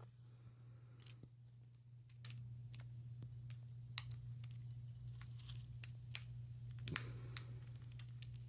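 Light, irregular clicks and rustles of empty sunflower seed shells being picked up and tossed by a red-bellied parrot, over a steady low hum.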